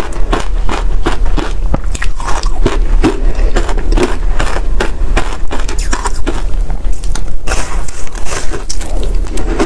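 Freezer frost ice being bitten and chewed close to the microphone: loud, rapid crunching, several crunches a second.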